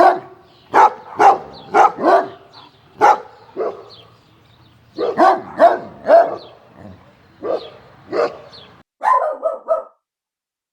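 A dog barking repeatedly in irregular clusters of sharp barks. Near the end comes a quick run of short barks, then the sound cuts off.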